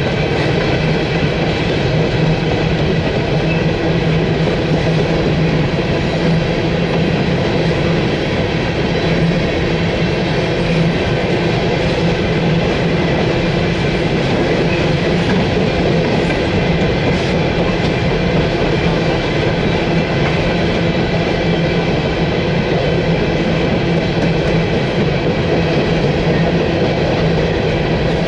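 Long string of CSX coal hopper cars rolling past: a steady, loud rumble and rattle of steel wheels on rail, with thin high steady tones riding above it.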